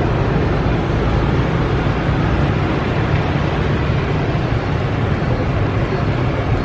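Steady, loud rumbling noise with no clear rhythm or distinct events.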